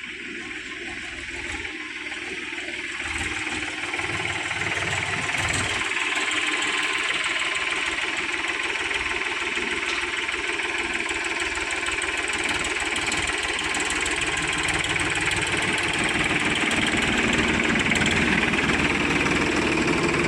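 Diesel engine of heavy machinery running, growing louder over the first several seconds and then holding steady.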